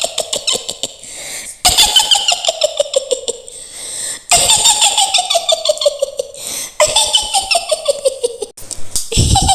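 Mak Lampir's high witch's cackle, laughed again and again: rapid 'hi-hi-hi' pulses that slide down in pitch, in runs of about two and a half seconds, each starting high again.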